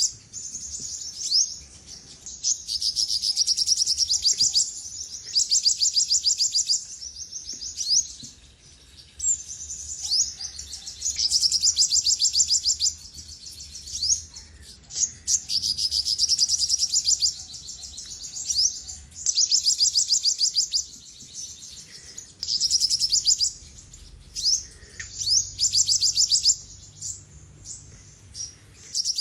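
Olive-backed sunbird singing: high, rapid trilled phrases of one to two seconds, repeated with short pauses and a few quick upslurred notes between them.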